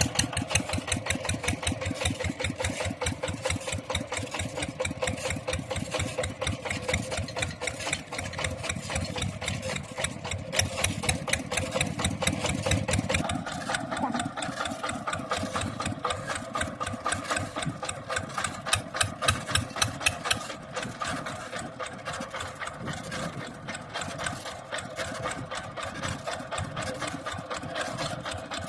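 Mini tractor engine running with a rapid, even beat of firing pulses; its tone shifts about halfway through.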